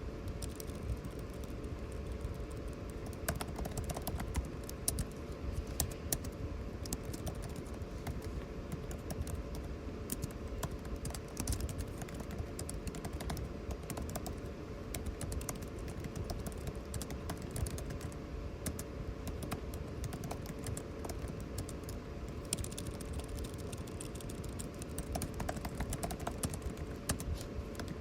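Continuous typing on a computer keyboard, irregular key clicks, over the steady hum and rush of air conditioning.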